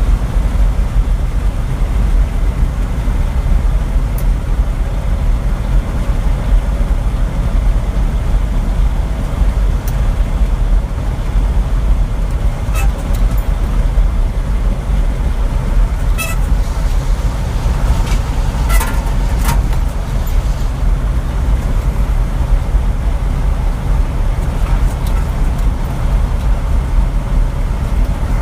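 Steady low rumble of a truck driving on the road, with a few short clicks or rattles about halfway through.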